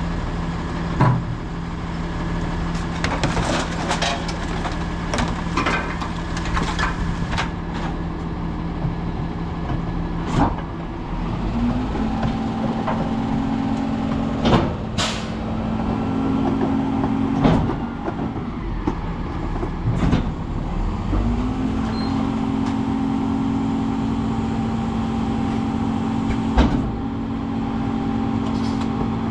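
Autocar ACX garbage truck with a split Heil rear-loader body running at idle. The engine speeds up twice and holds higher for several seconds each time, as it does to drive the hydraulic packer. Several sharp clanks and bangs of trash and cans hitting the hopper are scattered through.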